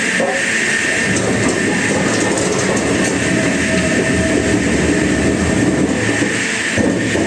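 Wood-cutting machinery running steadily: a continuous, loud mechanical din with a rattling rumble and a steady high hum.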